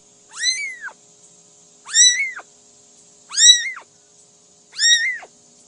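A cat meowing four times at an even pace, about one and a half seconds apart, each meow high-pitched and rising then falling.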